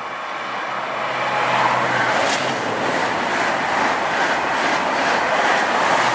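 TGV high-speed electric train passing at speed: the rush of wheels and air swells over the first couple of seconds as it comes in, then holds loud as the carriages go by. Repeated clicks from the wheels run through it.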